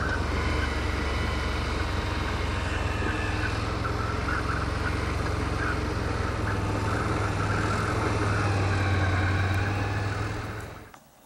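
ATV engine running steadily at a constant pitch, then dying away quickly near the end.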